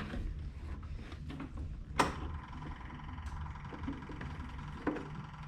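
A tractor's wiring-harness connector snapping into place with one sharp click about two seconds in, after which a steady high tone sets in and holds. A second, smaller click comes near the end, over a low steady hum.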